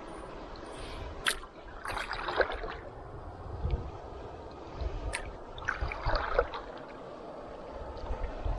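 Canoe paddle strokes in calm water: two strokes about four seconds apart, each a sharp tick followed by water swishing and gurgling off the blade.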